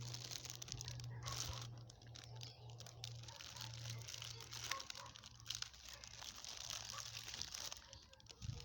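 Steady crinkling and rustling with many small crackles and taps, over a low hum that fades out about four seconds in.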